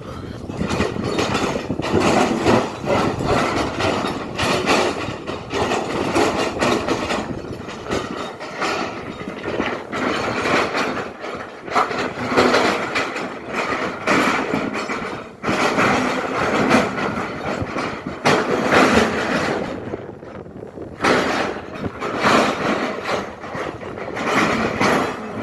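SANY hydraulic excavator working: its engine runs under load, with irregular clanks and knocks from the bucket and digging throughout.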